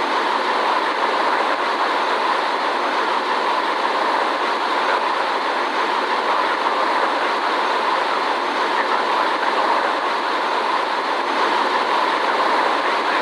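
Steady rushing noise of a Boeing 787 cabin in flight, even throughout with no changes.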